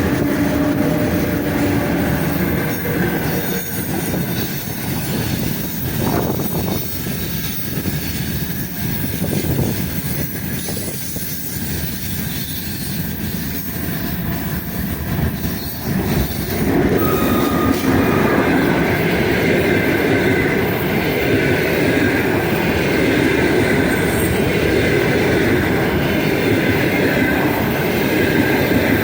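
EP1 electric locomotive and its passenger express train running past on the rails: continuous wheel and rail noise that grows louder about seventeen seconds in, where high squealing tones from the wheels come in.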